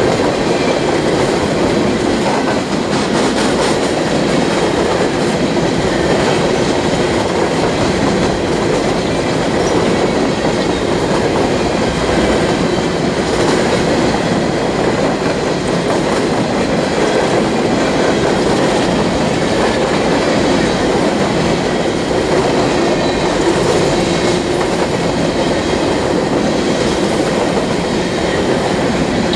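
Freight train of coal gondola cars rolling past close by: a steady, loud noise of steel wheels running on the rails, even throughout.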